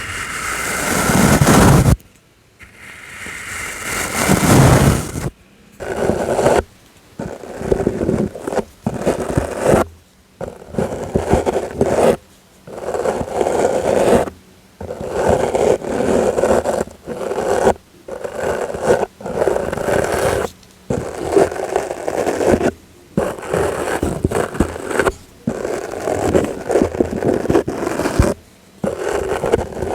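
ASMR brush strokes: a brush swept over and over close to the microphone, each stroke a scratchy brushing noise with a brief silence between strokes. The first two strokes are long, and after that they come about once a second.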